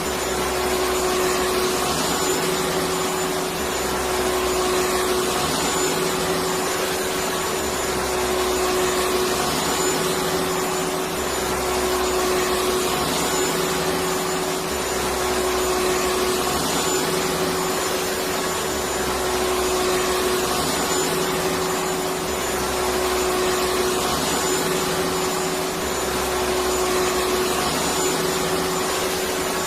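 Electric vacuum cleaner running continuously: a dense, steady rush of air with a constant motor whine, and a low rumble that swells and fades about every three and a half seconds.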